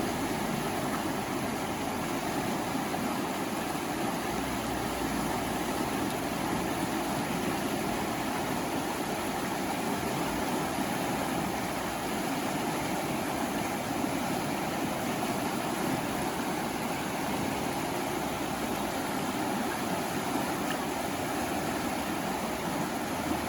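Flowing water, a steady unbroken rush.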